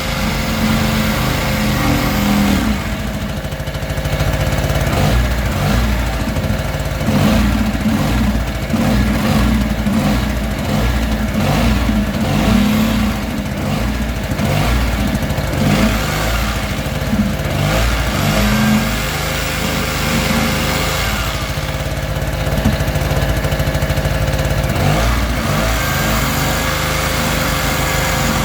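An engine running steadily, its note turning uneven and wavering through the middle stretch before settling again.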